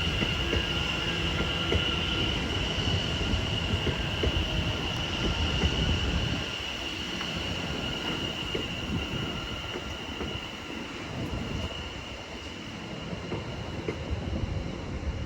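Two coupled Class 720 Aventra electric multiple units running into the platform, with a low rumble and a steady high-pitched squeal from the wheels or brakes. The rumble eases about six seconds in as the train slows.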